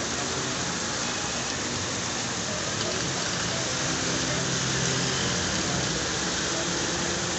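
Torrential rain pouring down in a steady, dense hiss of rain on surfaces, with a faint low hum underneath that is strongest around the middle.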